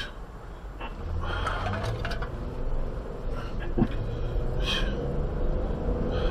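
Car driving, heard from inside the cabin: steady road and engine rumble with a faint steady hum, and a few short breathy sounds on top.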